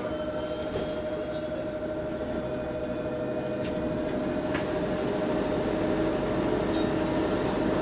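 City bus heard from inside the cabin: engine and road rumble with a steady whine from the hydraulic cooling fan, the weird noise that is the subject here. It grows a little louder in the second half, with a few faint rattles.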